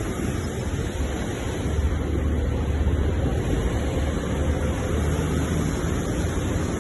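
Ocean surf washing steadily, a continuous rush of breaking waves with a deep low rumble underneath.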